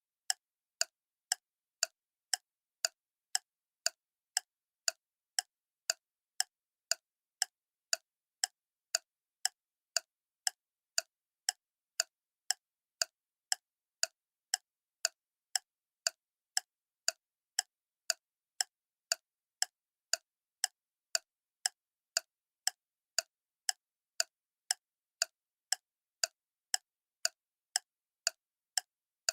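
Clock ticking: sharp, evenly spaced ticks, a little under a second apart, keeping a steady rhythm.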